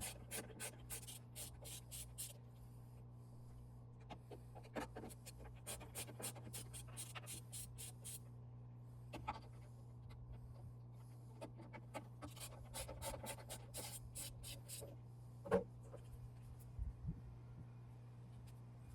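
Faint runs of rapid light clicking and scratching from a screwdriver backing out the T15 Torx screws that hold a Toyota Tundra power-folding mirror's motor, with a few small knocks of handled parts, over a steady low hum.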